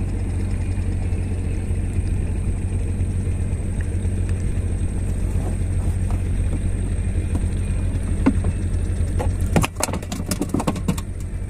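Small boat's engine running steadily with a low drone. A short run of knocks and clatter comes near the end.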